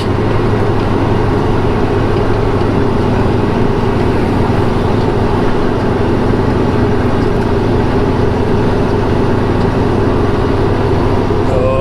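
Semi-truck's diesel engine running steadily at a low, even pitch.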